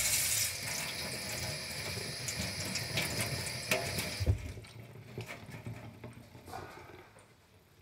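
Tap water running as a robot vacuum filter is rinsed under it. The flow stops with a knock about four seconds in, followed by a few faint clicks.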